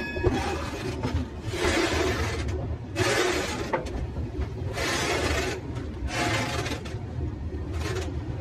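Train wheels running on the rails: a steady low rumble with a rushing surge about every one and a half seconds.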